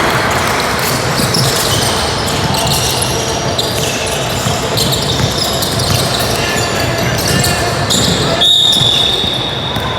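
Basketballs bouncing on a gym floor amid echoing crowd chatter, with a long, high whistle blast starting near the end.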